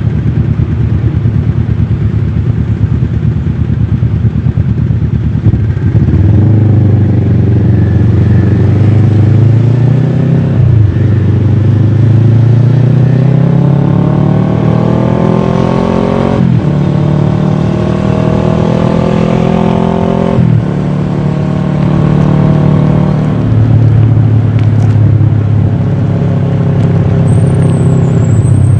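Kawasaki ER-6f's parallel-twin engine through a full Akrapovic exhaust, picked up by a camera mounted on the bike while riding. After a few seconds of low rumble it pulls up in pitch, with gear changes cutting the pitch sharply about eleven and sixteen seconds in, then it drops again about twenty seconds in and holds a steady note.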